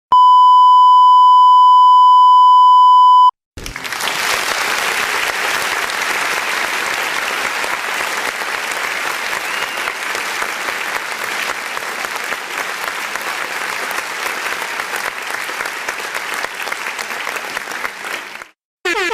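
A steady high-pitched censor bleep held for about three seconds, cut off sharply, then after a short gap a long stretch of crowd applause that stops abruptly.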